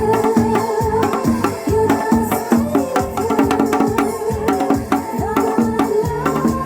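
Janggu, the Korean hourglass drum, struck in quick, dense strokes over a disco-style backing music track with a melody and a bass line.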